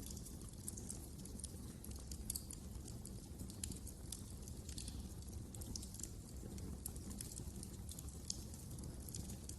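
Wood fire crackling in a fireplace: frequent, irregular sharp snaps and pops over a steady low rumble of burning.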